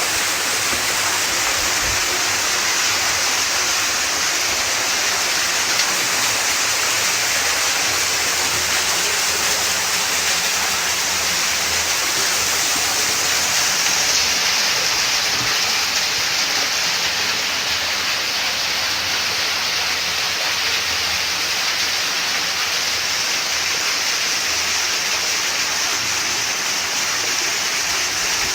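Rainwater rushing steadily in a stream or small waterfall after heavy rain.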